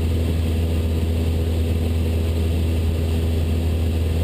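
Cessna 172's piston engine and propeller droning steadily in level cruise, with no change in pitch.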